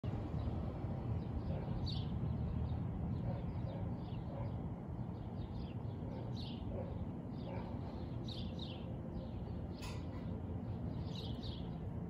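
Small birds chirping in short, falling chirps every second or two, over a steady low rumble, with one sharp click about ten seconds in.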